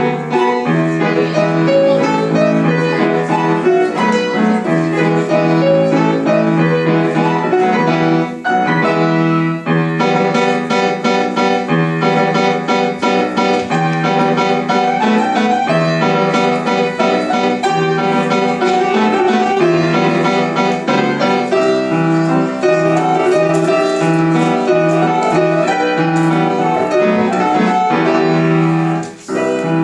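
Piano duet: continuous piano music with many overlapping notes, with a brief break near the end.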